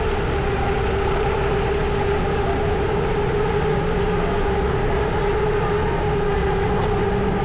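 City street traffic: a steady low rumble with a continuous hum held at one pitch throughout.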